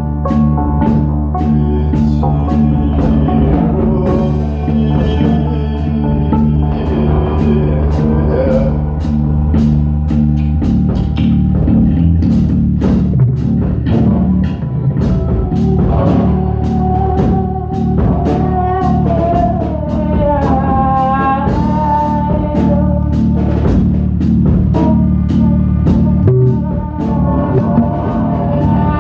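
Rock band music: a drum kit keeps a steady beat under bass and guitar, with a wavering melodic line in the middle.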